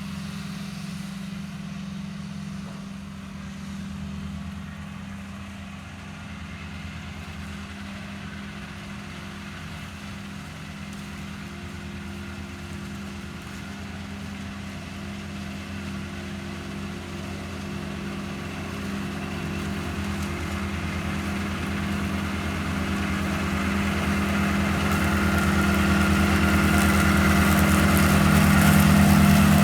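Walker riding mower's Kubota engine running steadily with an even hum, growing clearly louder over the last third.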